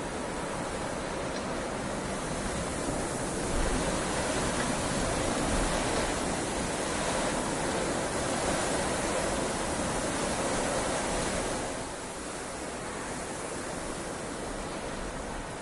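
Heavy rain pouring steadily. It swells louder a few seconds in and eases back down a little after the middle.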